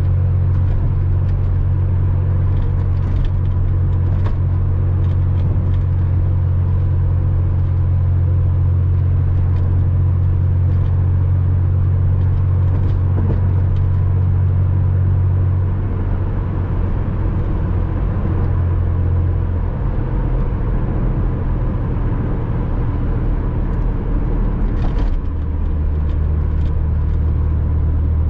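Porsche Boxster 986's flat-six engine running steadily while driving, with road noise. The engine note drops about halfway through and shifts again twice toward the end.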